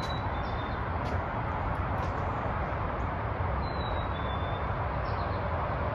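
A bird's short, high two-note whistle, the second note slightly lower, heard twice, at the start and again about three and a half seconds in, over a steady low outdoor rumble.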